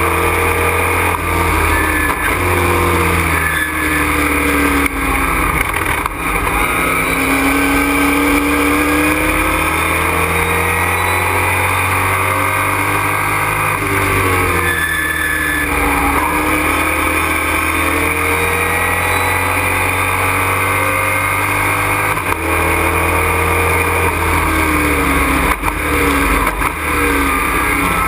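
Race truck's engine heard from inside the cockpit, running loud and continuous at racing speed, its revs climbing and dropping repeatedly through gear changes and corners.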